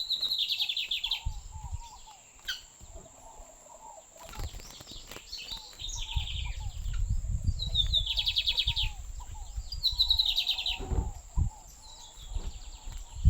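Lined seedeater (bigodinho) singing short phrases of fast, rapidly repeated high notes, several phrases in a row with pauses between them. A low rumbling noise runs underneath in the second half.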